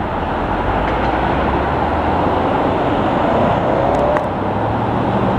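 Jet airliner flying low overhead: a steady, loud, broad engine roar, with a faint tone sliding in pitch about three and a half seconds in.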